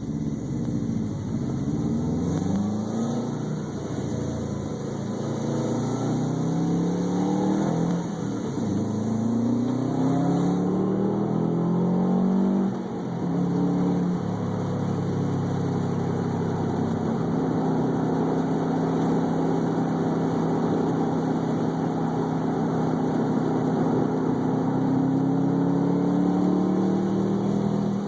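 Car engine accelerating hard through several gears, its pitch climbing and dropping back at each upshift over the first twelve seconds or so. After a brief lift near the middle it holds a steady pitch at speed that rises slowly.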